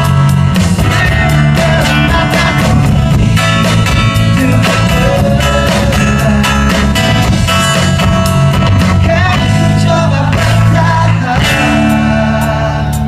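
Pop-rock band playing live, with a sung melody over guitar, bass and drums.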